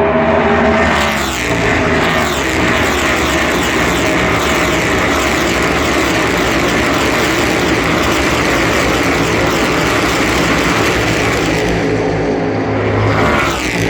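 NASCAR Cup Series cars' V8 engines at full throttle as a pack goes past. The pitches drop as the first cars go by, then many engines blend into a dense, steady sound, and near the end another car comes in with a rising pitch.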